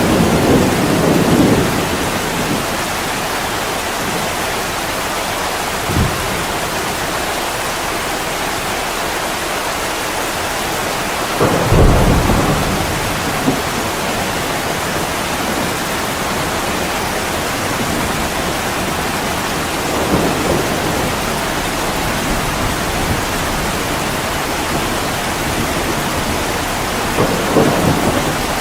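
Heavy rain falling steadily on an attic window, with low rolls of thunder: one at the start, a short sharp clap about six seconds in, a louder rumble about twelve seconds in, and fainter ones later.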